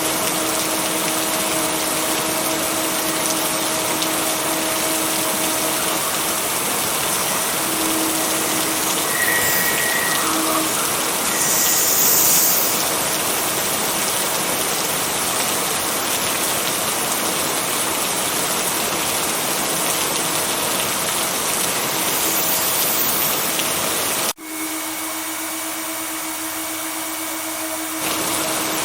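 Steady heavy rain, a dense even hiss with a faint steady hum under it. Near the end it breaks off suddenly, is thinner for a few seconds, then returns at full strength.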